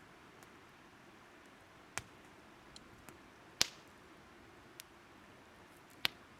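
Wood fire crackling: three sharp pops, the loudest a little past halfway, with a few faint ticks between them, over a faint steady hiss.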